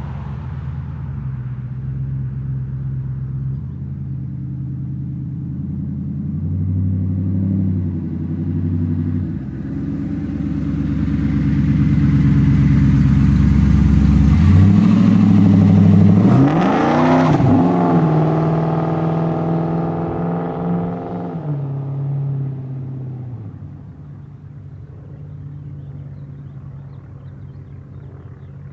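1998 Pontiac Firebird Formula's LS1 V8, breathing through a high-flow Magnaflow catalytic converter and a glasspack, driving past: the exhaust note builds for about fifteen seconds, drops sharply in pitch as the car goes by, then fades to a distant rumble.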